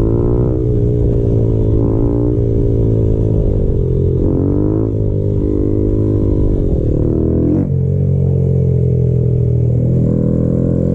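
Honda Grom's single-cylinder engine running, its revs rising and falling repeatedly, with a quick drop and pick-up about seven and a half seconds in.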